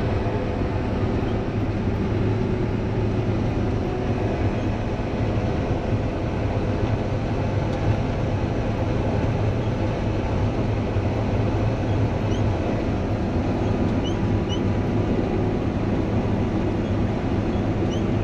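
Harvest machinery running steadily under load: a constant low engine drone with the hum of the machine's drives. A few faint short high chirps come in after about twelve seconds.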